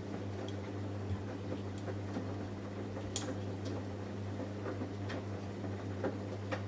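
Samsung Eco Bubble washing machine running a cotton wash: a steady low hum with scattered light clicks, one louder click about three seconds in.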